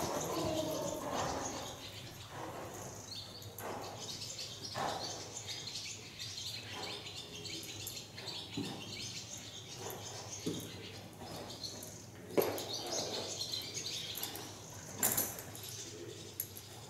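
Small birds chirping on and off in the background, with a couple of short knocks in the second half.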